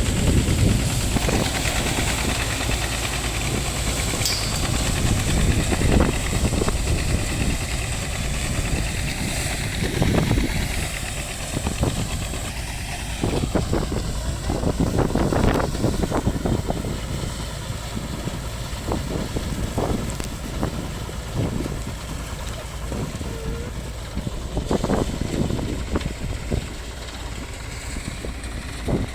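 Single-cylinder diesel engine of a VST Shakti 130 DI power tiller running steadily while driving a groundnut thresher, with irregular knocks and thuds from the machine.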